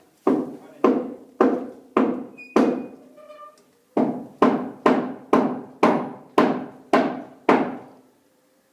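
A series of ringing knocks, about two a second: five strikes, a short pause, then eight more, each dying away over about half a second.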